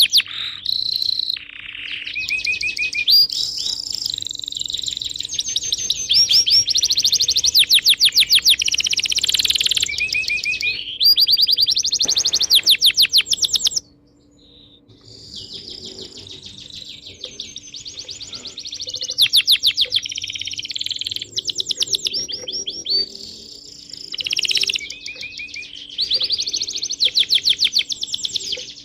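Several small birds chirping and trilling in fast, overlapping runs of notes. About halfway through the sound suddenly drops, then softer chirping carries on. A faint steady hum sits underneath.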